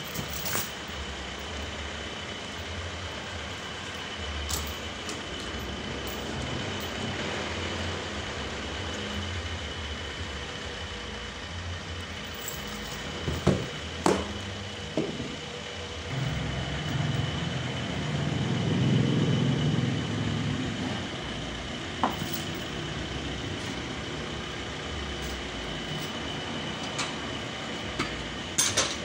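Sawmill machinery running steadily, with a constant high whine over a low hum. A few sharp knocks come around the middle and near the end, and a heavier low rumble swells for several seconds past the middle.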